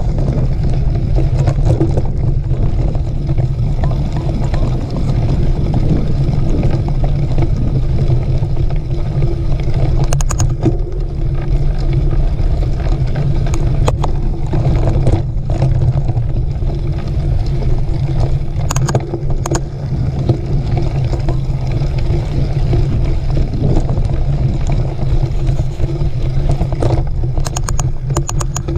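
Steady wind buffeting and ride rumble on a camera riding along on a mountain bike in a race, with a few short rattling clicks along the way.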